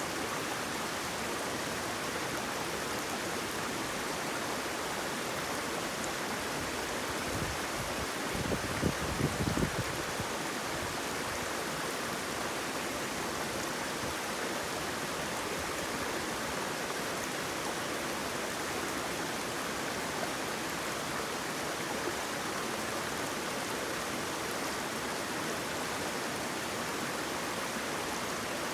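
Flowing water rushing steadily, an even wash of noise with no breaks. About eight seconds in there is a brief low rumble lasting around two seconds.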